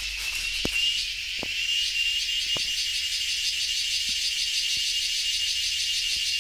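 A steady high-pitched chorus of insects, a continuous pulsing trill, with a few soft taps in the first few seconds.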